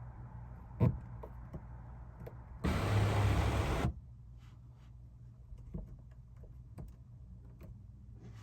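A car's electric power accessory motor runs for about a second, a loud whirr starting and stopping abruptly, amid a few switch clicks over a low steady hum.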